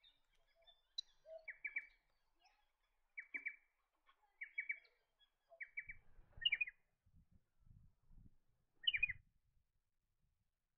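Striated pardalote calling: short, sharp groups of two or three quick notes, repeated every second or so, the later calls rising in pitch. Faint low rumbles lie under the calls in the second half.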